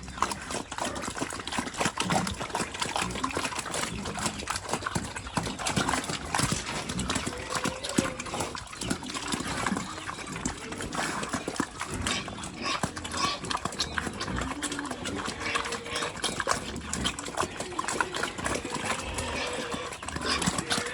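Pigs eating vegetables and rice: steady chewing, crunching and smacking, with a few short calls.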